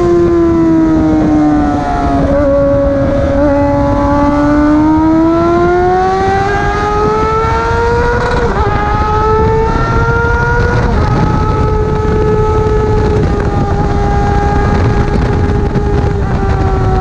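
Motorcycle engine running hard on a racetrack, its pitch sliding down, then climbing, with three short drops in pitch as it shifts up through the gears. A heavy rumble of wind and road noise runs under it.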